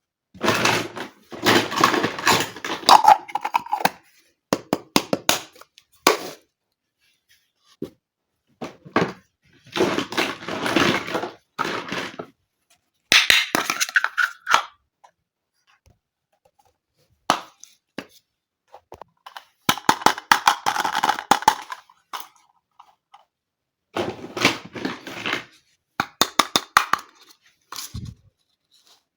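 Small plastic toy kitchen pieces being handled: rustling and clattering in bursts of a few seconds, with single sharp clicks and short silences between them.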